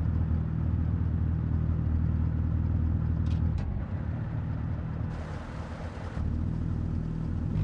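Vehicle engine running with a steady low rumble. Two short high squeaks come a little after three seconds in, and a burst of hiss lasts about a second around the five-second mark.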